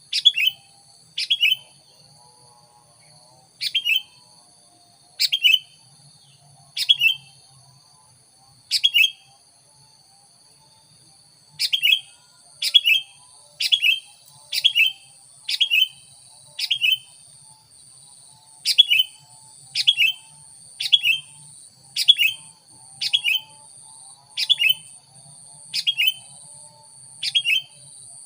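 Sooty-headed bulbul (kutilang) calling: a short, sharp call repeated about once a second in runs, with a pause of a few seconds near the middle. A steady high-pitched whine runs beneath the calls.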